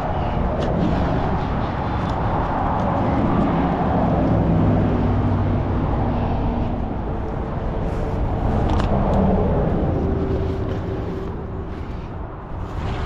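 Motor vehicle engine running, swelling and fading twice as if vehicles pass, with a few light clicks and knocks on top.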